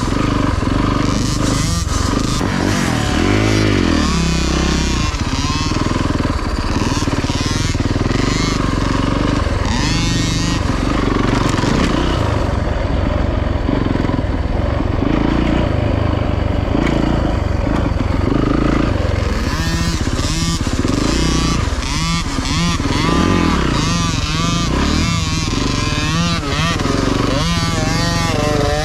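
Dirt bike engines running on a motocross track, the pitch rising and falling again and again as the rider works the throttle and shifts. The engine eases off for a few seconds around the middle.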